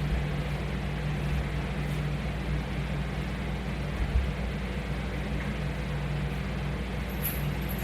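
Steady low hum of room background noise, with a faint knock about four seconds in.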